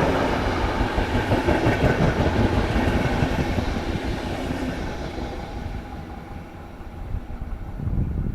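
Passenger train rolling past, its coach wheels clattering over the rails. The sound fades steadily through the second half as the train draws away, with a brief louder rumble near the end.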